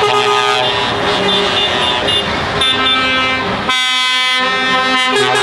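Lorry air horns and car horns sounding from passing vehicles, several overlapping blasts one after another with the clearest held blast about four seconds in, over the noise of lorry engines.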